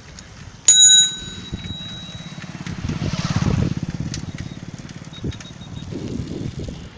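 A bicycle bell rings once, sharply, a little under a second in. After it comes the rattling noise of a passing vehicle, loudest around three to four seconds in and then fading.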